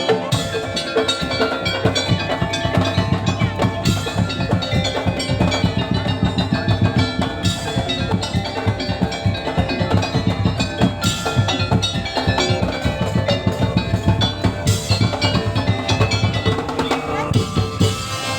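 Music played by a band with drums and ringing tuned percussion, on a steady fast beat.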